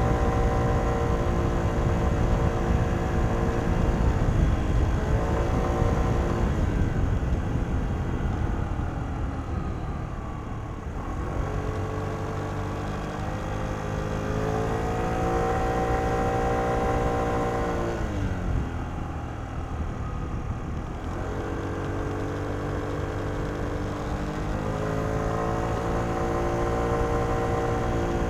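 Kymco Downtown 125i scooter's single-cylinder four-stroke engine through its stock exhaust, heard onboard while riding. The engine note drops as the throttle is closed, then climbs and holds as it pulls away again, several times over.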